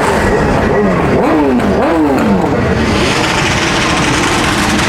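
A car engine revved in several quick blips, its pitch rising and falling each time, then a steadier rushing noise.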